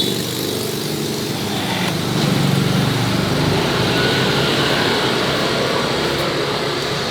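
A small engine running steadily with a dense low rumble.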